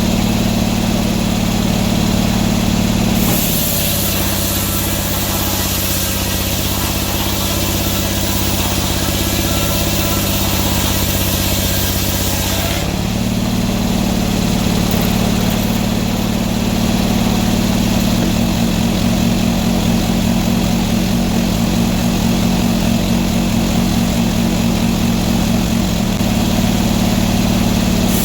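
Sawmill engine running steadily. From about 3 s in to about 13 s in, its note drops slightly and a high hiss is added, as under the load of a cut; then it settles back to its lighter running note.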